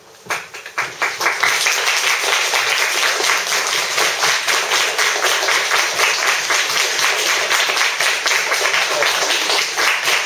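Audience applauding: the clapping breaks out a moment in, builds over the first second and then keeps on steadily.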